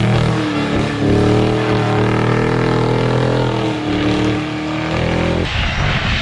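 Ford Mustang GT's V8 held at high revs in a drift, its note wavering up and down as the driver works the throttle. About five and a half seconds in it cuts off abruptly to a different, noisier sound.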